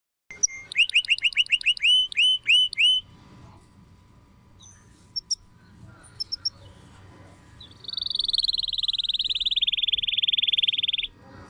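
Canary singing: a run of quickly repeated rising whistled notes, a few short chirps, then a long fast rolling trill that slowly falls in pitch and stops suddenly near the end.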